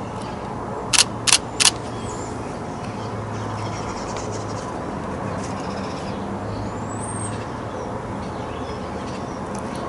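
Canon 90D DSLR shutter firing three times in quick succession, three sharp clicks about a third of a second apart. A steady low hum and a few faint high bird chirps continue underneath.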